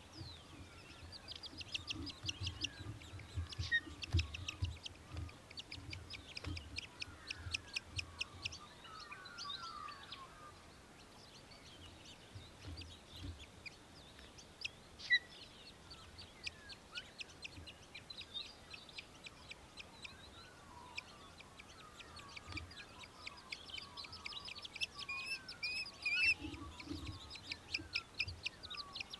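Australian Hobby (little falcon) giving rapid, high-pitched chattering calls in bouts of many quick notes, sparser through the middle and busier again near the end. Softer, lower bird notes sound alongside, with a low rumble in the first few seconds.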